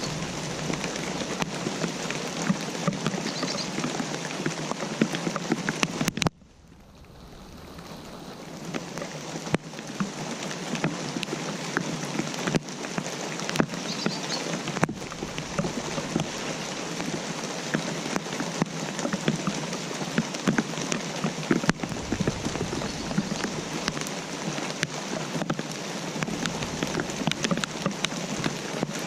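Steady rainfall, a dense hiss of many individual raindrop hits. It cuts out abruptly about six seconds in and fades back up over the next few seconds.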